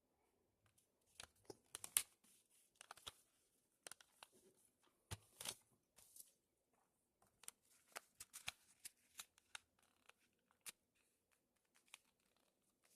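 Sheet of paper being folded and creased by hand: light crinkles and sharp crackles come and go irregularly, the loudest about two seconds in and again around five seconds.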